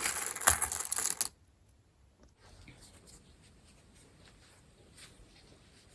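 Buttons clattering together, a dense rattle of small hard clicks lasting about a second, then only a few faint light clicks.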